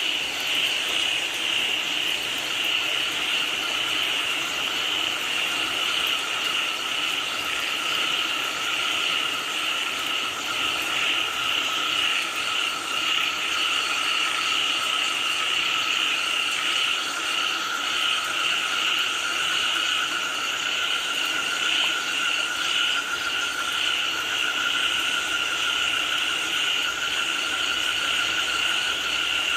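Dense chorus of many frogs calling without pause, in two steady layers, one higher-pitched than the other, over a constant even hiss.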